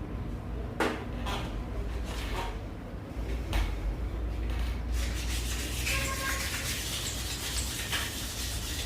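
Small metal engine parts and tools clinking against each other and the bench four times, then from about five seconds in a continuous rubbing and scraping of metal with small knocks, over a steady low hum.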